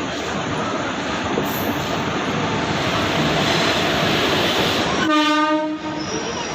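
Express train running through the station at speed: a loud, steady rush of wheels on rail. About five seconds in, a short horn blast sounds for about a second.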